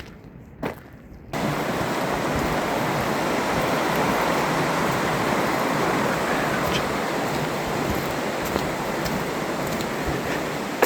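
Steady rush of moving water that starts abruptly about a second in, after a quiet moment with two short knocks.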